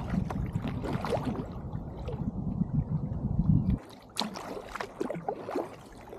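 Kayak paddling: water splashing and dripping off the paddle, over a low rumble that cuts off suddenly about four seconds in.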